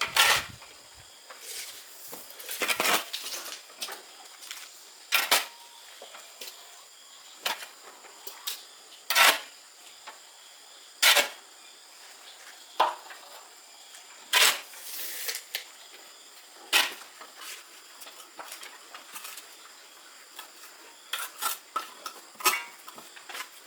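Sharp clinks and knocks of hard objects striking, one every second or two, with a short scrape about fourteen seconds in.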